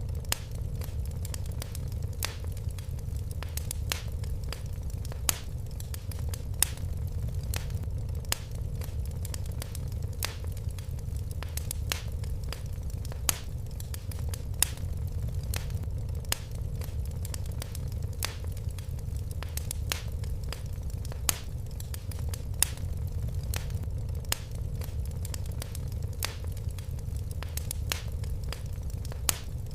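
Fire in a fireplace crackling, with irregular sharp pops over a steady low rumble.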